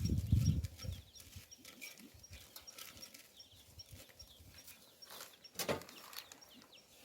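Chicks peeping softly, short little chirps over a faint high chirp repeating about three times a second, with a few clicks and knocks; a louder low thumping in the first second.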